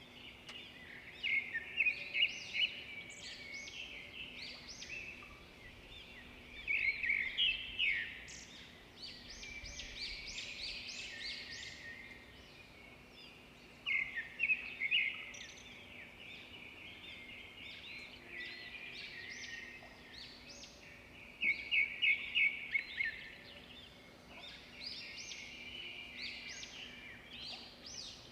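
Songbirds singing: bursts of quick, high chirps and trills come every few seconds, some overlapping, over a faint steady low hum.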